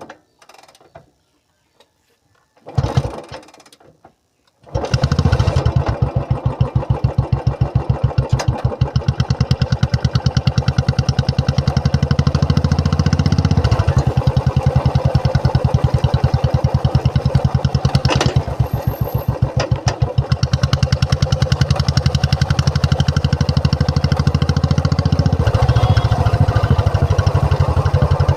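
Royal Enfield Classic 350's single-cylinder engine starting about five seconds in, after two short noises, then idling with a steady, evenly spaced thump.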